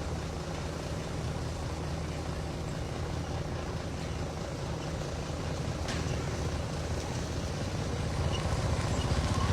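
A heavy machine's diesel engine runs steadily with a low drone, growing louder in the last couple of seconds. There is a single sharp click about six seconds in.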